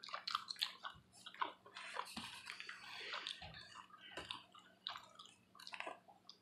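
Faint wet chewing and lip smacks of a person eating saucy buffalo wings, irregular small clicks and squishes.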